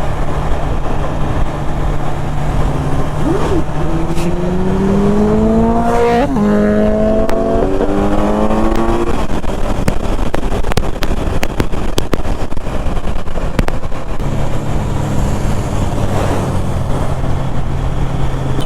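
2020 BMW S1000RR's inline-four engine through an Akrapovic Evolution exhaust, heard loud. It runs at a steady note, then revs up with a rising pitch from about three to nine seconds in, and settles back to a steady note near the end.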